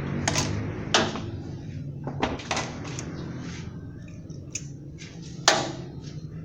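A series of about seven short, sharp knocks and clacks at uneven intervals, the loudest about five and a half seconds in, over a low steady hum.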